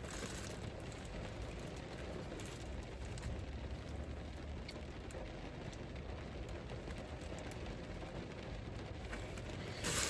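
Steady low hiss and rumble of background noise, with a few faint clicks.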